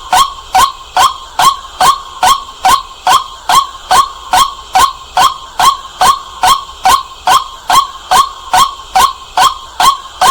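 White-breasted waterhen calling: short, loud, harsh notes repeated evenly, about two and a half a second.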